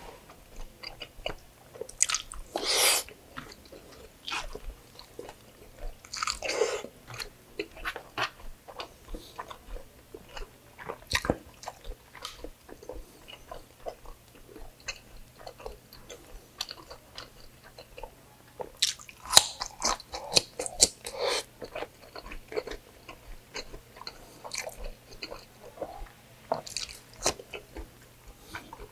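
Chewing and biting of a mouthful of pork belly adobo and rice, with a run of crunchy bites, most likely into a raw cucumber spear, about two-thirds of the way through.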